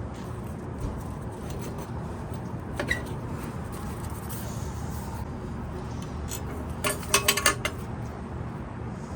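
Metal parts and tools being handled, giving a single clink about three seconds in and a quick run of clinks and knocks near the end, over a steady low background rumble.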